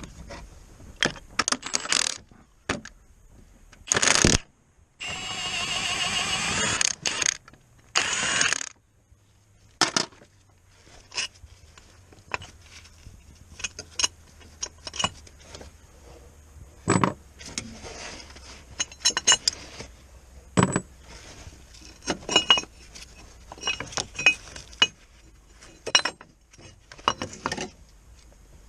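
Metal tools and parts clinking and clattering during hands-on car repair work, a long series of separate sharp knocks. About five seconds in, a steady hissing or whirring sound runs for about two and a half seconds, and a shorter one follows soon after.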